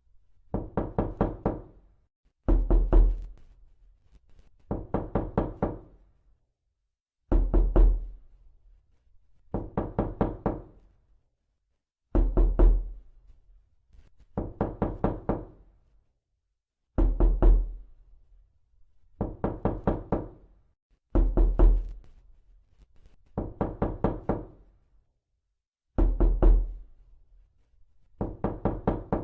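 Knocking in quick runs of several raps. A louder run is followed by a softer one, and the pair repeats about every five seconds with silence between.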